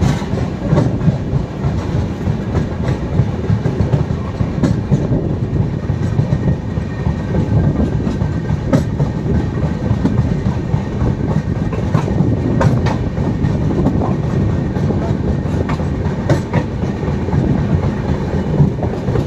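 Indian Railways passenger coach running along the track, heard from its open doorway as the train pulls out of the station: a steady low rumble from the wheels, with irregular clicks and clacks over the rail joints.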